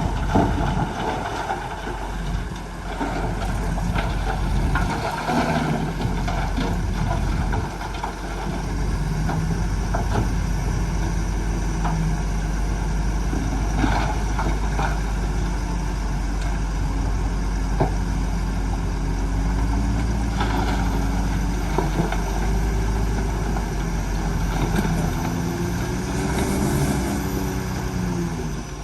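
Diesel engine of heavy earth-moving machinery running under load, its pitch rising and falling in the last several seconds as the engine speed changes, with a few sharp metallic knocks.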